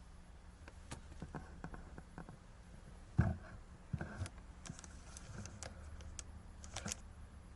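Scattered light clicks and knocks of hand tools and metal parts being handled, with a heavier thump about three seconds in and another about a second later.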